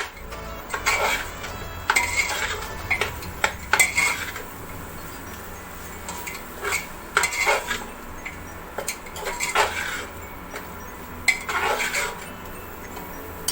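A spoon stirring in a cooking pot, scraping and clinking against its sides in short bursts every second or two, as spice masala is mixed into the tomato base.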